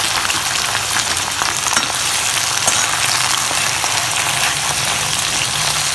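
Sticks of taro root (arbi) frying in hot mustard oil in an iron kadhai: a steady sizzle with fine crackles.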